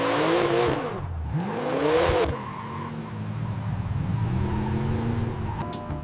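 Car engine revving: the engine note climbs and falls twice in the first two seconds or so, then settles into a steadier, lower drone that rises slightly near the end.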